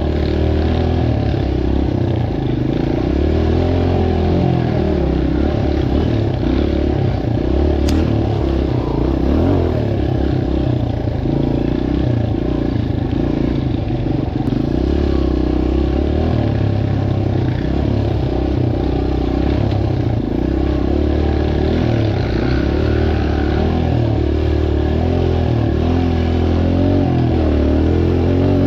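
Dirt bike engine running, its pitch rising and falling with the throttle; a single sharp click about eight seconds in.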